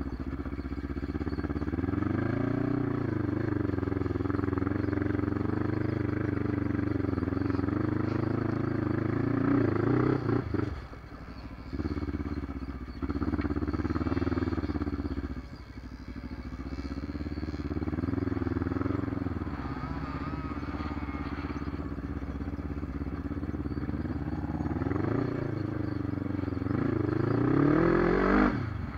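Motorcycle engine of an off-road vehicle ridden over dirt tracks, revving up and down with the throttle. The engine drops off briefly about ten seconds in and again around fifteen seconds, then revs hard near the end.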